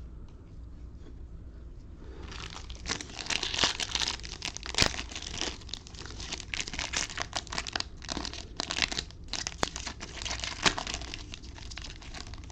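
Crinkling and tearing of a trading-card pack's wrapper as it is ripped open and handled, with many sharp crackles. It starts about two seconds in and carries on almost to the end.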